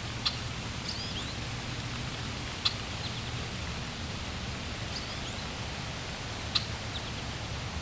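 Steady rush of flowing water, with birds giving a few short high chirps and three sharp clicks standing out every few seconds.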